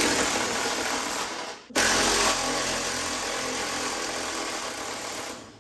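Power tool motor running under the trigger in two long pulls, with a brief stop a little under two seconds in.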